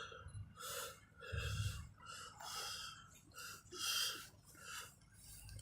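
A person breathing out in breathy puffs close to the microphone, about five of them, each under a second.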